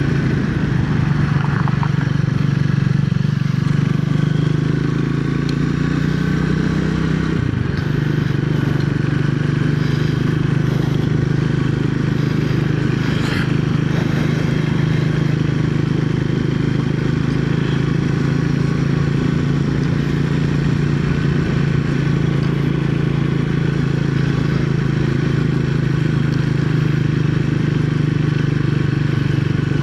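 Triumph Speed 400's single-cylinder engine running under way, its pitch shifting over the first few seconds with a sudden change about seven to eight seconds in, then holding steady.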